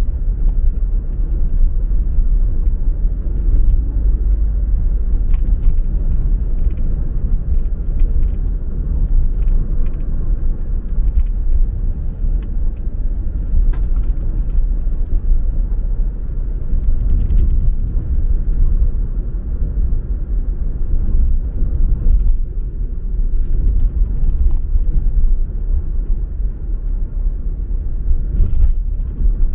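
Car driving along: a steady low rumble of engine and road noise, with scattered faint clicks.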